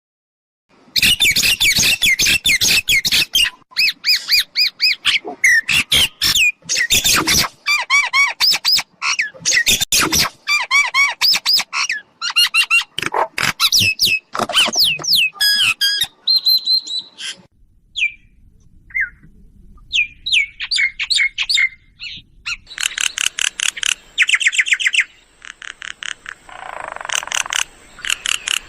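Myna calls of the kind used as a lure in bird trapping: a dense run of loud, varied chattering and whistled notes. The calls ease off a little past halfway and pick up again with fast repeated notes near the end.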